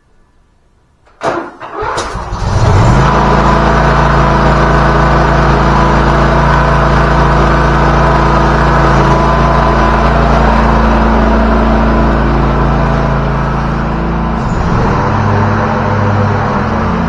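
Zero-turn lawnmower engine starting up: a short burst of cranking about a second in, catching and then running steadily, with a brief change in engine speed near the end.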